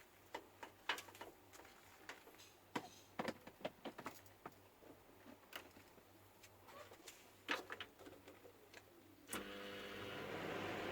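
Scattered light clicks and knocks of parts and tools being handled, then about nine seconds in a microwave oven switches on and runs with a steady transformer hum and fan noise that grows louder.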